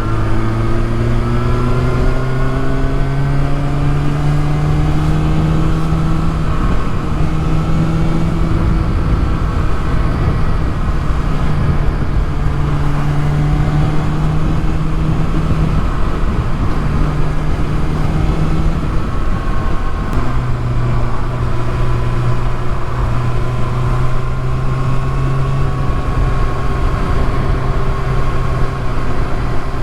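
Kawasaki ZX-6R sport bike's inline-four engine under way on the road. It pulls up in pitch over the first few seconds, then cruises at a steady pitch, drops briefly about twenty seconds in, and settles to a steady cruise again.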